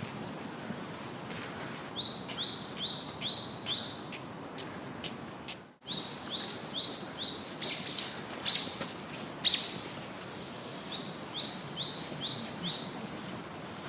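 A bird calling in runs of four or five quick chirps, the run repeated three times over a steady background hiss, with two louder sharp sounds near the middle.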